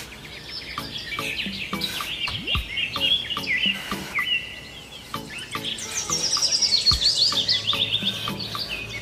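Birds chirping and trilling in rapid repeated phrases, busiest about six to seven seconds in, over a regular series of short clicks.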